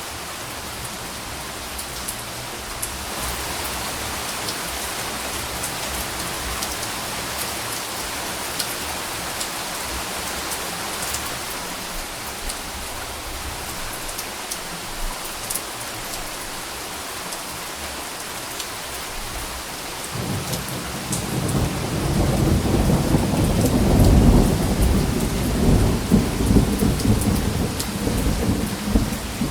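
Steady rain falling, with scattered drops pattering. About twenty seconds in, a long low rumble of thunder builds up and keeps rolling as it ends.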